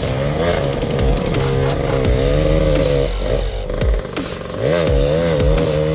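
Enduro dirt bike engine revving up and down repeatedly as it is worked over rough trail, with a brief drop in revs about three seconds in.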